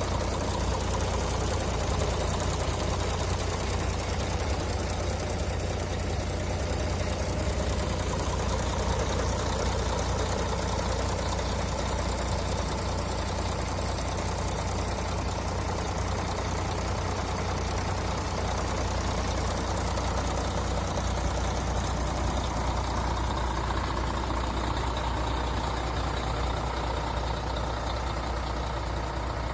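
MAN TGA 26.460 tractor unit's 12.8-litre straight-six diesel idling steadily.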